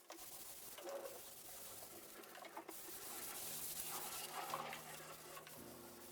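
Faint, irregular rubbing and scraping: folded cardboard burnishing peel-and-stick walnut veneer down onto a tabletop.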